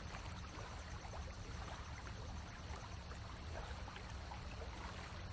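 Faint steady outdoor background noise: an even hiss with a low steady hum underneath and a few small faint ticks.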